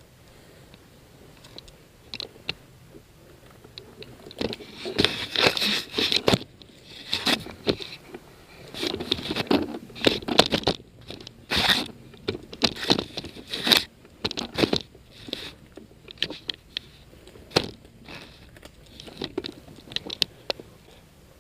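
Irregular crunching and scraping, as from footsteps and a body brushing through dry undergrowth close to a worn camera. It starts about four seconds in and comes in uneven clusters of strokes, not a steady rhythm.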